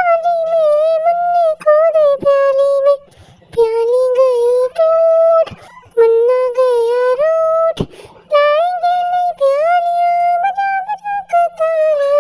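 A high voice singing a Hindi children's rhyme, holding notes with vibrato in short phrases separated by brief pauses, with a few sharp clicks between phrases.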